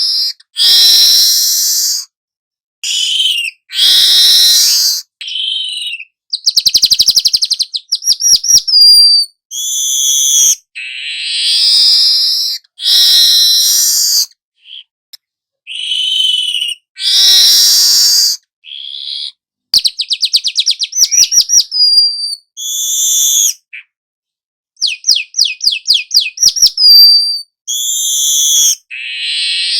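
Young manyar weaver singing a long run of song. It gives harsh, wheezy buzzing phrases, and three times a fast, rattling chatter that ends in short whistled notes.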